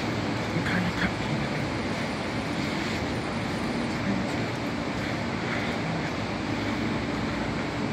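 Nine-car MTR East Rail line R-Train electric multiple unit pulling out of a station platform: a steady running rumble with a low hum.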